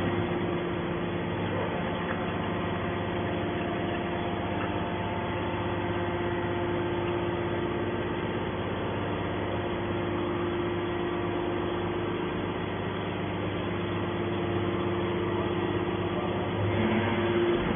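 Hydraulic scrap metal baler running, its electric motor and hydraulic pump giving a steady hum with a constant whine. The sound shifts and grows a little louder near the end.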